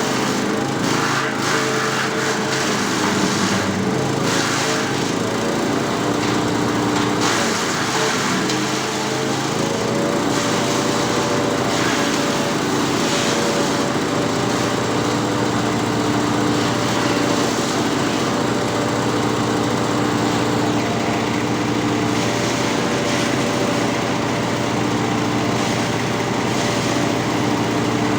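Drum wood chipper with an 18.5 hp petrol engine running at high speed, chipping branches, with a steady engine tone. The engine pitch dips briefly about eight seconds in, as it takes load from the wood, and there are rough chopping noises over it.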